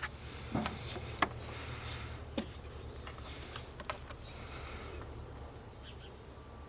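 A handful of sharp light clicks and some rustling from hands working through the wiring harness, over a steady low hum.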